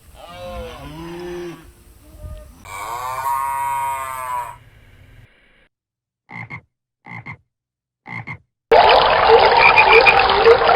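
A string of animal calls: two drawn-out pitched calls, then three short croaks about a second apart. These are followed by a loud chorus of frogs croaking over one another that fills the last two seconds.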